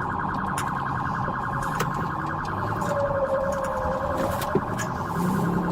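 Electronic siren sounding steadily with a very fast warble, with a lower tone that dips and climbs back about three seconds in.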